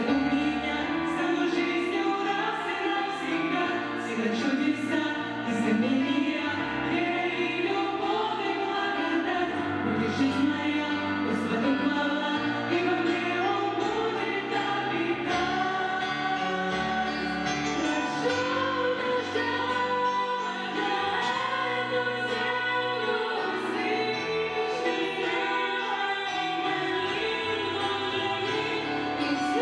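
Choral music: several voices singing a slow melody over sustained low notes, with a light regular beat.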